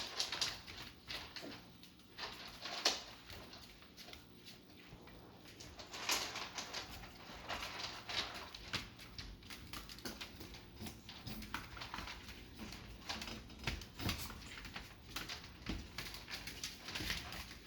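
Chihuahua puppies at play: irregular scuffling, pattering and small knocks of paws and claws.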